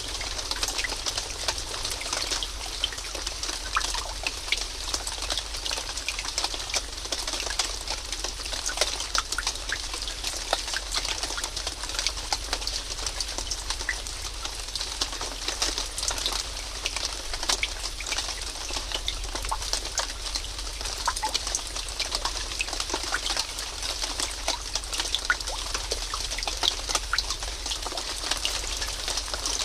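Steady rain falling, with many separate drops ticking through an even hiss and a low rumble underneath.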